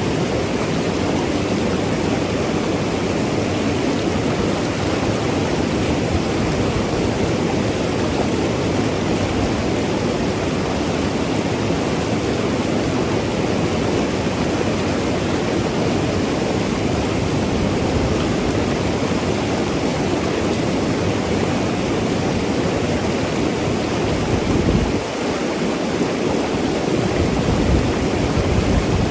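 Mountain river rushing and gurgling over rocks, a steady full water noise.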